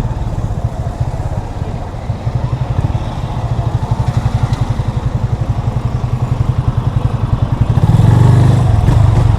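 Yamaha FZ25's single-cylinder engine running under way, a steady rapid low pulse. It grows louder from about eight seconds in as the throttle opens.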